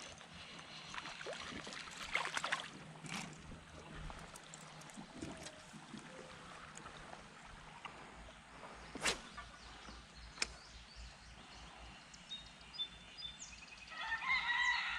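Quiet creekside background with a few sharp clicks and knocks. A rooster crows near the end.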